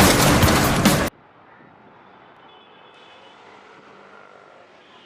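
Loud, dense noise of a car crash cuts off suddenly about a second in, leaving only faint background with a few thin, quiet tones.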